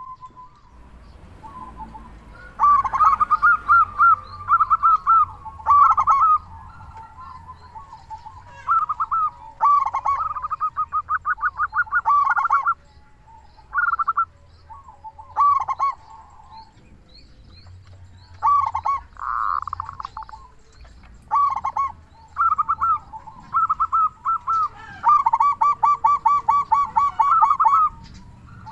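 Zebra dove (perkutut) singing: phrases of quick, rapidly repeated cooing notes, one after another with short pauses between.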